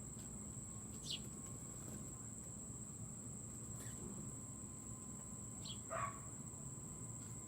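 A steady high-pitched chorus of crickets, with a few short downward-sliding bird calls over it, one about a second in and the loudest about six seconds in.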